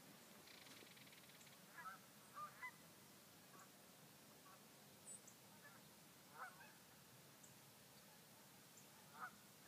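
Faint, distant birds calling: a handful of short calls scattered over a quiet background hiss.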